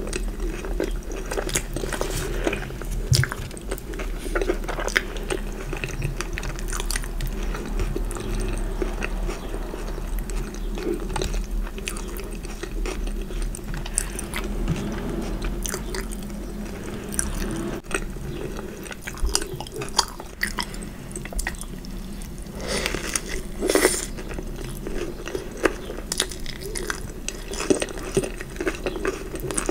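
Close-miked eating: chewing and biting with crunching and many small clicks and mouth sounds, over a low steady hum. The crunches come louder about two thirds of the way through.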